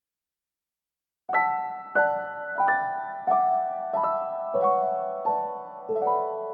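Background music: a slow piano melody of struck, ringing notes about every two-thirds of a second, starting about a second in.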